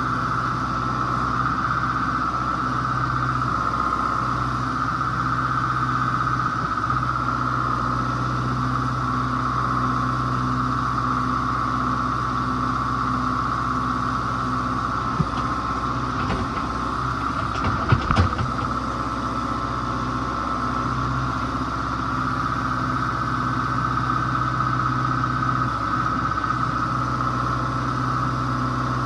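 Tractor engine running steadily under load while the loader bucket digs, with a few sharp knocks about two-thirds of the way through.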